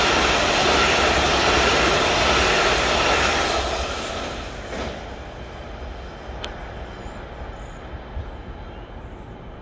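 DC Metro train running past on the tracks, a loud, steady rush of rail noise with a faint high ring in it, that fades away between about three and a half and five seconds in, leaving quiet background.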